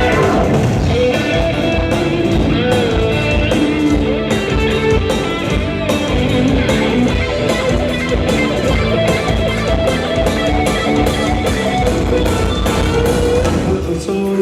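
Live rock band playing a guitar-led instrumental break between verses, over a steady drum beat.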